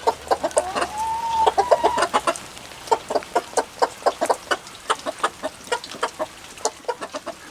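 Hens clucking in a steady run of short calls, with one drawn-out, slightly rising call about a second in.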